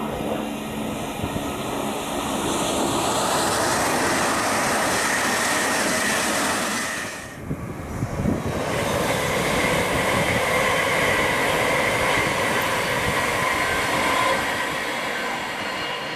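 A train passing at speed on the main line, a steady rush of wheels on rail. About halfway through it briefly dips, with a few sharp clicks. A faint steady whine rides over it in the second half.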